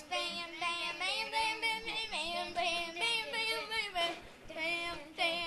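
A child's high voice singing or crooning without clear words in held, sliding notes, the pitch shifting every second or so.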